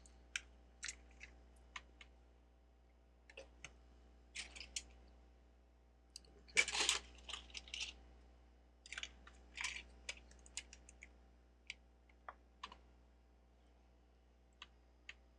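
Plastic Lego bricks being handled and pressed together: scattered small clicks, with a denser, louder clatter of pieces about six and a half seconds in.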